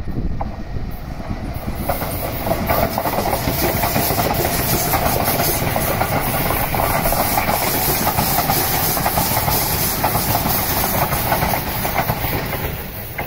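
Sotetsu 12000 series electric commuter train passing close by: the steady running noise and hiss of its wheels on the rails, with a rapid stream of clicks as the wheels go over rail joints.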